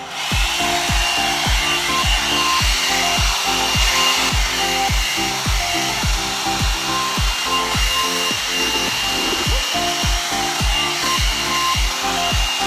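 One-step hot air brush (hair dryer and styler) blowing on its high setting: a steady rush of air with a faint high whine, which starts abruptly at the beginning. Background music with a steady beat plays underneath.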